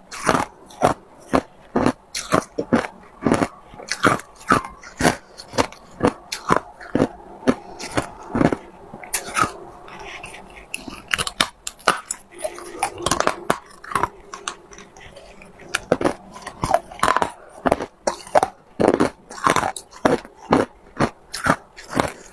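A person biting and chewing hard ice, a sharp crunch about twice a second, thinning out for a moment near the middle before picking up again.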